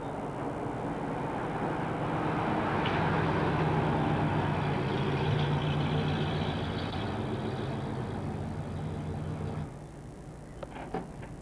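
A large sedan's engine running as the car drives up close and comes to a stop, getting louder over the first few seconds; the engine sound stops abruptly near the end, followed by a few sharp clicks.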